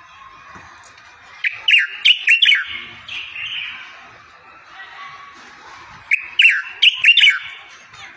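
Songbird song played as a tutor recording for training goldfinches and canaries: two short, loud phrases of rapid, steeply falling whistled notes, about a second and a half in and again about six seconds in, over a steady background of softer twittering.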